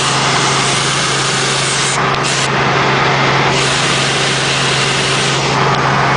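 Helicopter running: a loud, steady drone with a constant low hum under a wide hiss, which thins briefly in the upper range twice.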